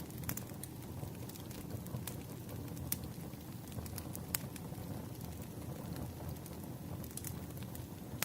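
Wood fire crackling: scattered sharp pops and snaps at irregular times over a steady low rumble.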